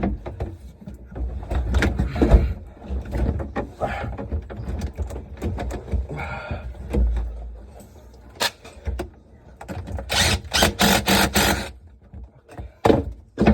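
Irregular knocks and clatter of parts and tools being handled during a dishwasher installation, with a quick run of sharp rattling clicks about ten seconds in.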